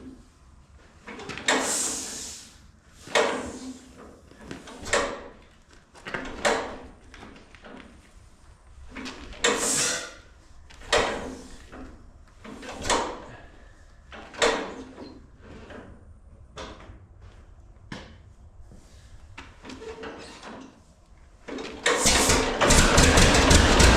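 1936 John Deere two-cylinder engine being turned over by hand at the flywheel: a noisy puff with each pull, about one every second and a half, for about twenty seconds. Near the end it catches and runs with a loud, steady, rapid beat, a cold start.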